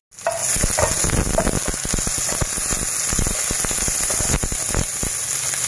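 Sliced shallots, ginger, garlic and red chilli sizzling in hot oil in a non-stick wok: a dense, steady crackle of small pops over a hiss.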